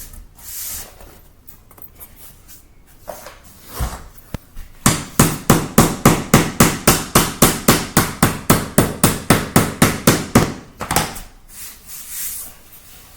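Rapid, even hammer taps on flooring being laid, about five a second for some six seconds, starting about five seconds in, after a few scattered knocks.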